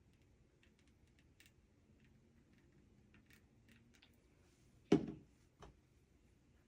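Handling noise from pistol cleaning: faint light clicks of small parts and supplies being moved, then a solid knock about five seconds in and a smaller one right after, as objects are set down on the work surface.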